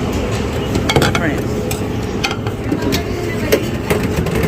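Busy buffet restaurant din: a steady murmur of many voices with scattered sharp clinks and clacks of dishes and serving utensils.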